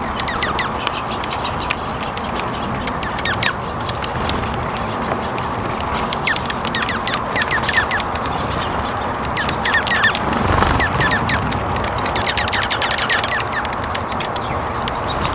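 Wild birds calling in quick series of short, falling chirps, over a steady background hiss.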